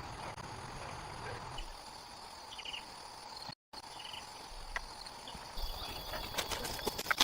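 Rainforest insects buzzing steadily, with the sound cutting out completely for an instant in the middle. From about five and a half seconds in, a higher insect buzz sets in along with a run of sharp clicks.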